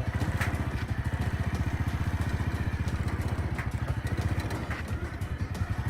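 Small motorcycle engine running steadily as the bike is ridden along, a rapid even putter.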